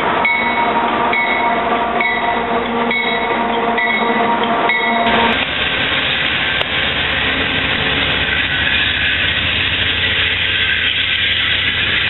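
Freight train approaching with its horn held on a steady chord and a bell ringing in even strokes a little under twice a second; the sound cuts off abruptly after about five seconds and gives way to the steady diesel rumble and rail noise of an Amtrak P42DC locomotive pulling into a station.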